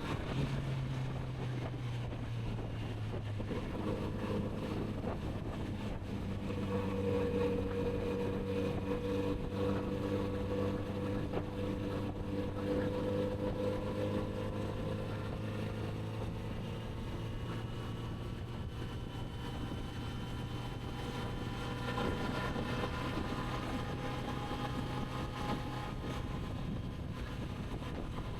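Kawasaki Z900RS inline-four engine running at steady cruising revs under wind noise on the microphone. The pitch dips briefly at the start and rises gradually over the last several seconds as the revs build.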